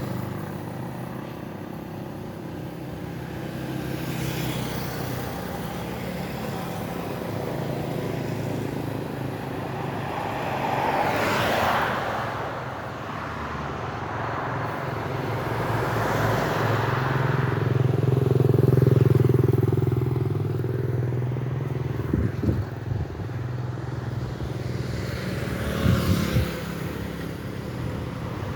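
Road traffic: motorbike and other vehicle engines running, with vehicles passing close by about a third of the way in and again, louder, about two-thirds of the way in. A few sharp knocks near the end.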